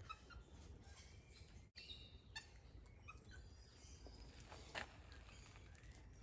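Near silence with faint, high, short chirps and a few soft clicks; one click a little louder near the end.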